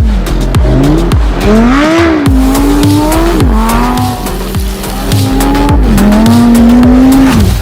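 Exhaust of a Lamborghini Huracán Sterrato's naturally aspirated V10, its pitch climbing, holding and dropping several times as it revs and shifts, with the longest held note just before the end.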